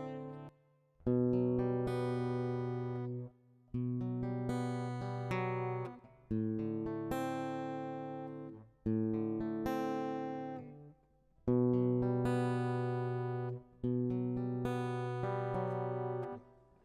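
Solo guitar playing slow chords: about six chords, each struck once and left to ring for roughly two seconds before being stopped, with short gaps between them.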